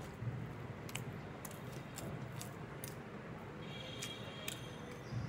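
Close-up chewing of a mouthful of khichuri rice and meat, with wet mouth clicks and smacks about every half second.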